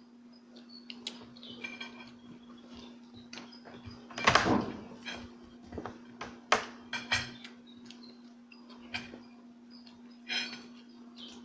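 Close-miked eating sounds: chewing, with irregular clicks and knocks of utensils and dishes. The loudest is a noisy burst about four seconds in. A steady low hum runs underneath.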